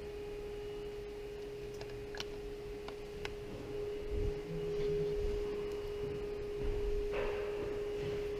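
A steady, even pure tone, with a few light clicks and some low knocks and handling noise over it.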